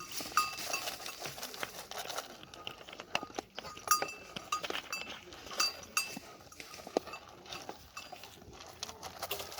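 Ewe feeding on dry corn in the pen: a run of crunches and sharp clicks, with short metallic clinks that ring briefly.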